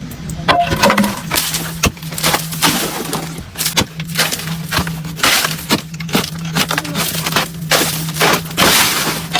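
Lumps of coal or rock crashing and clattering in a quick irregular run of impacts, over a steady machine hum.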